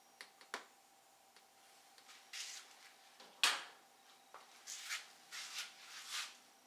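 Small handling noises from working on a van's door panel: a few light clicks, one sharp clack about three and a half seconds in, and several short rubbing swishes near the end.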